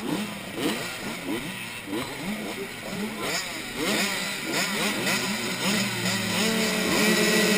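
Motocross dirt bike engines revving up in quick repeated rises, as on a practice track. Near the end an engine settles into a steady, held note.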